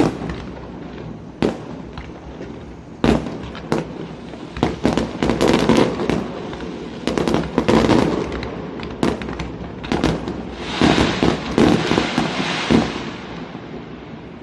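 Aerial fireworks going off: a string of sharp bangs at irregular intervals, each with a rumbling echo, and near the end a dense crackling burst that fades away.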